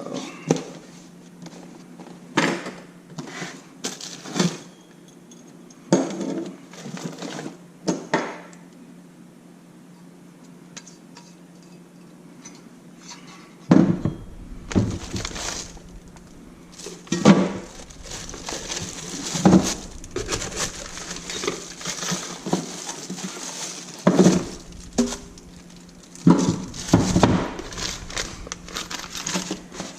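Unpacking a cardboard box: metal wheel chock parts knock and clink as they are handled. The first half has separate knocks a second or two apart; from about halfway, packaging rustles steadily under more frequent clanks.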